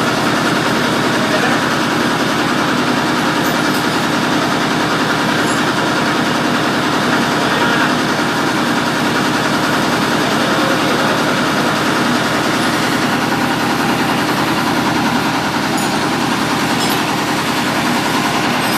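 Mitsubishi 8DC10 V8 diesel engine running steadily at a constant speed, the freshly overhauled engine on its test run.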